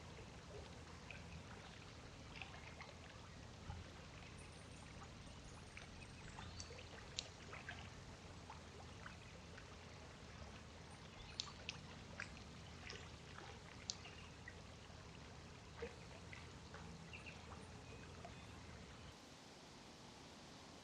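Faint, steady running or trickling water, with scattered small clicks and ticks over it.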